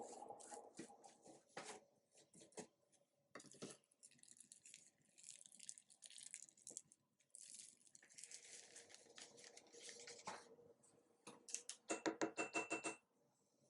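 Faint scraping, rubbing and tapping of hand work with painting tools and materials, with rustling stretches. Near the end comes a quick run of about eight rattling taps.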